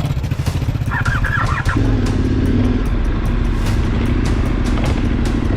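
KTM 1290 Super Adventure R's V-twin engine running at low revs, then opening up a little under two seconds in and holding a steady drone as the bike rides on.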